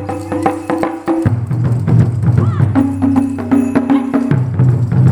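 Taiko drums and wooden naruko clappers playing a fast, dense rhythm of strikes, over held tones that shift pitch every second or so.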